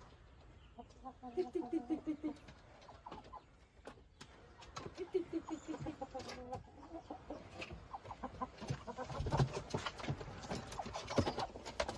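Chickens clucking in two runs of quick, repeated notes, with clicks and knocks that grow busier and louder over the last few seconds.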